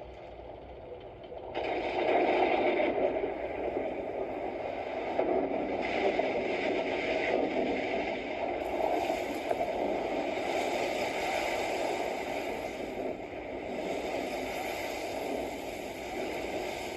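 A steady rushing, churning noise of glacial meltwater and moving ice, starting suddenly about a second and a half in and shifting in character several times, with no sharp cracks.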